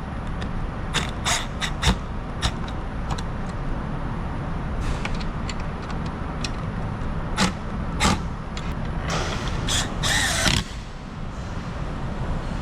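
Ambulance engine idling as a steady low rumble, with scattered sharp clicks and knocks, and a burst of hiss lasting about a second and a half near the end.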